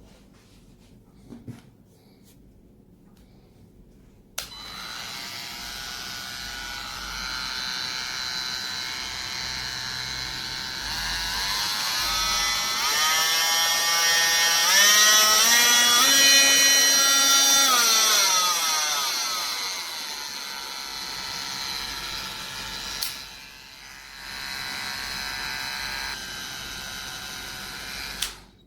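Cordless oscillating multi-tool starting about four seconds in and running with a high buzzing whine, its pitch shifting up and down in the middle, briefly easing off near the end and then stopping.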